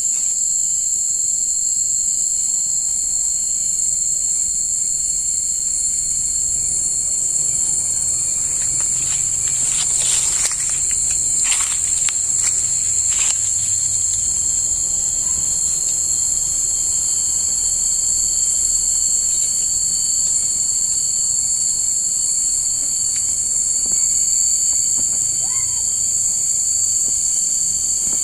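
Insect chorus singing, a steady, continuous high-pitched trill, with a few brief sharper sounds about ten to thirteen seconds in.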